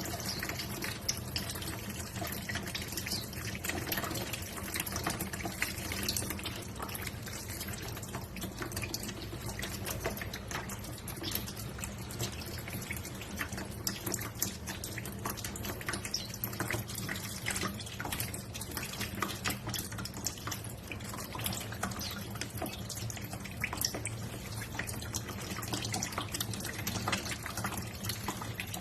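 Water trickling and splashing continuously, with many small, irregular drips and splashes throughout as a small bird bathes, over a steady low hum.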